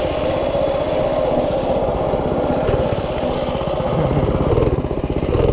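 Minibike's small engine running steadily, a rapid even firing beat, getting a little louder toward the end.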